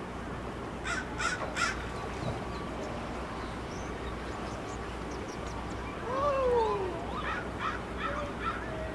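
Harsh bird calls: three short calls about a second in, a falling call around six seconds, then a run of short calls near the end, over a steady low hum.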